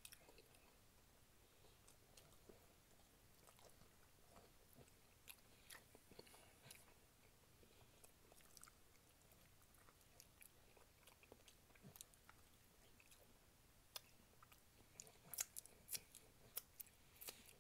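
Faint close-up eating sounds of a person picking oxtail meat off the bone with their fingers: quiet chewing with wet mouth clicks and lip smacks. A run of sharper smacks comes near the end.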